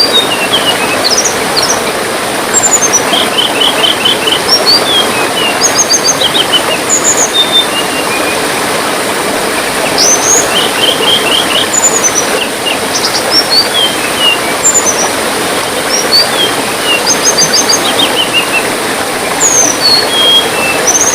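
Tledekan songbird singing in repeated short phrases of high chirps and quick trills, over a steady hiss of trickling water.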